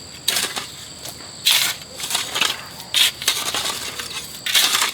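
A hand tool scraping and spreading loose soil and stones, in about five gritty strokes roughly a second apart, as dirt is levelled to raise a floor.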